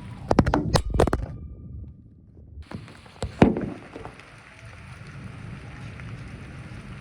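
Steady rain falling, an even hiss, with a few sharp knocks and clatters in the first second and again about three seconds in.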